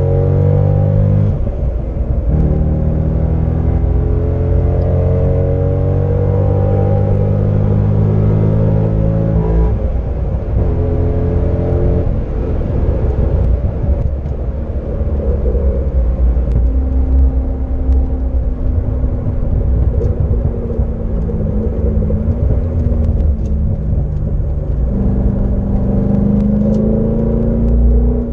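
2007 Corvette C6's 6.0-litre LS2 V8 heard from inside the cabin under hard acceleration on track, rising in pitch through the gears with upshifts about a second in and around ten seconds in. It then runs steadier for a while and climbs again near the end.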